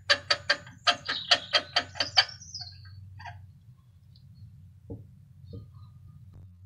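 A bird calling in a quick run of about ten sharp notes, roughly four or five a second, stopping a little over two seconds in, over a faint steady low hum.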